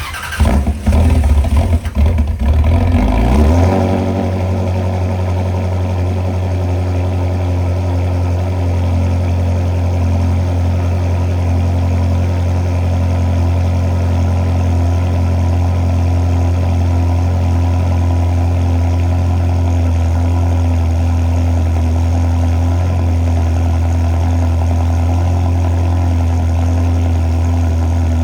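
Ferrari 360 Spider's 3.6-litre V8 on a cold start: it fires and flares loudly for the first three seconds or so, then settles into a steady idle.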